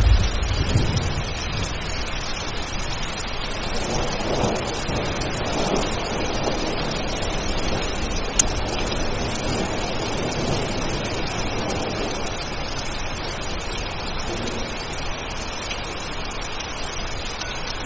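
Steady rain, with the tail of a low thunder rumble dying away in the first second or two. A single sharp click about eight seconds in.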